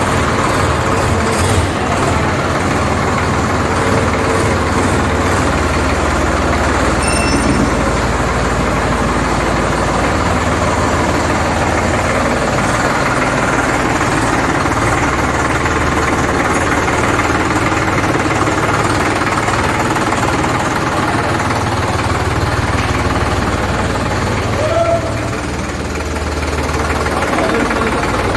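Sonalika DI 745 tractor's diesel engine running steadily with a rhythmic diesel clatter, briefly dropping a little in level about 25 seconds in.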